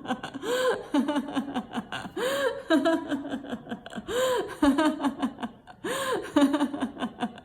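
A woman's deliberate laughter-yoga laughing, in repeated bouts about every two seconds. Each bout opens with a rising-and-falling whoop and runs into a string of quick, choppy 'ha' pulses.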